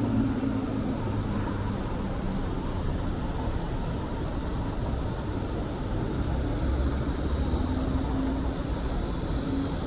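Urban road traffic: a steady hum of passing vehicles and tyre noise.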